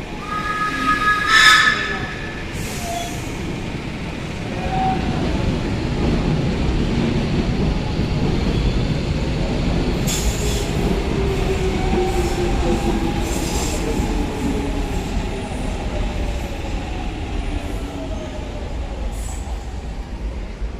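Metro train pulling into the station: a brief high squeal about a second in, then a rumble that builds and holds, with a whine that falls slowly in pitch as the train slows.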